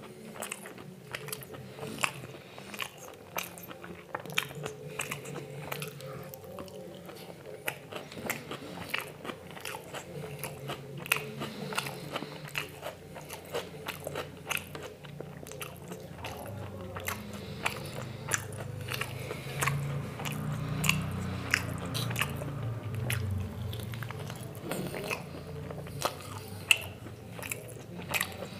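Close-up eating sounds from a mukbang: a person chewing and biting into food, with many short, sharp mouth and food clicks.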